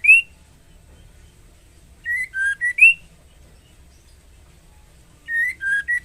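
Female white-rumped shama calling to a male: short phrases of four clear whistled notes, two level ones, a lower one, then a rising final note that is the loudest. The phrases repeat about every three seconds, with one about two seconds in and another near the end.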